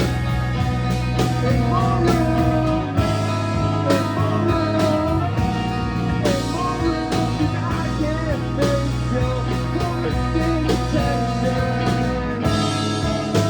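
Live rock band playing: a lead line bending up and down in pitch over sustained bass notes and regular drum hits.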